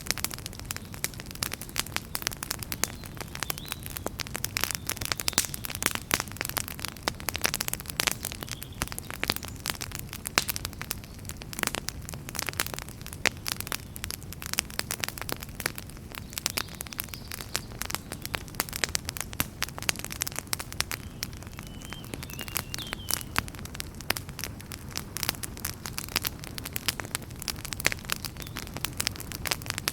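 Wood fire in a fireplace crackling: dense, irregular sharp pops and snaps over a low, steady rumble of the flames.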